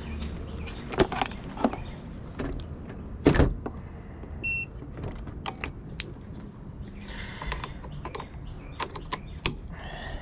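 Scattered clicks and clunks of hands and equipment being handled at the car, with one short electronic beep about four and a half seconds in.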